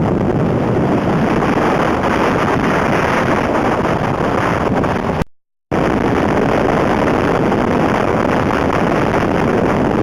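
Blizzard wind buffeting the microphone: a loud, steady rushing noise with no distinct events, broken by a sudden half-second gap of silence about five seconds in.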